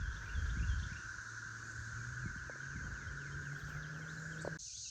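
Outdoor ambience: a steady insect drone with scattered short bird chirps, and wind rumbling on the microphone in the first second. The background changes abruptly just before the end.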